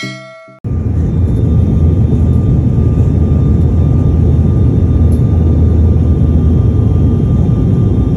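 Loud, steady low rumble of a vehicle in motion, engine and rushing air, with a faint steady whine above it. A short pitched tone cuts off about half a second in, just before the rumble begins.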